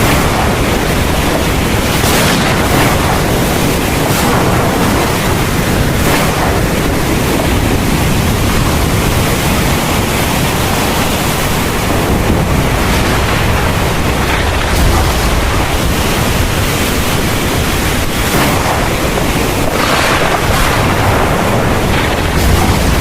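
Heavy rain pouring steadily, with a deep continuous rumble of thunder underneath and a few brief surges in intensity.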